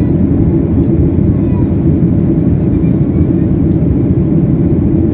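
Steady low rumble of a Boeing 737-800 cabin in flight: the CFM56 turbofans and the rush of air over the fuselage, with no change in pitch or level.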